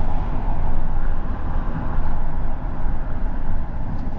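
Steady road and engine noise inside a moving car, a loud even rumble with no breaks.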